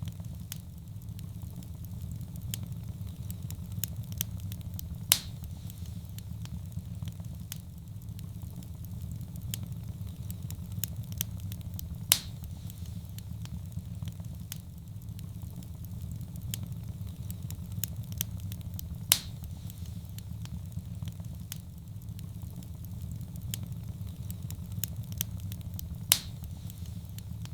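Wood fire crackling in a fireplace: a steady low rumble of flames under many small crackles, with a louder sharp pop about every seven seconds.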